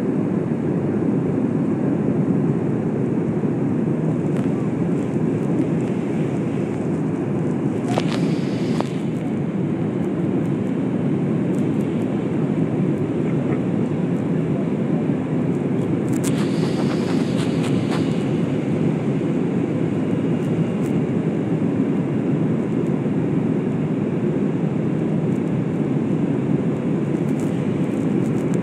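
Steady cabin noise of a jet airliner, engines and airflow making an even, unbroken rush. A couple of brief, brighter sounds come about eight and sixteen seconds in.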